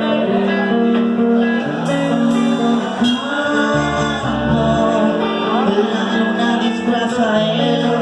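Live band music led by strummed acoustic guitar, with deeper low notes coming in about halfway through.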